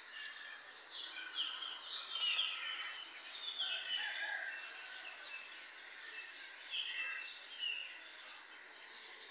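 Small birds chirping and twittering, a busy run of quick, short, falling chirps over a faint steady background hiss, busiest in the first half.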